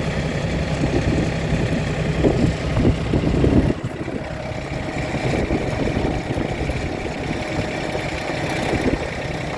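Engine of the farm train's tow vehicle running, a steady low drone with some rattle; about four seconds in it eases off and the drone becomes quieter and thinner.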